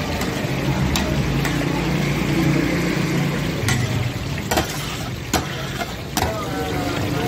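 Meat patties frying in a large pan of hot oil: a steady sizzle, with a few sharp clicks scattered through it over a steady low hum.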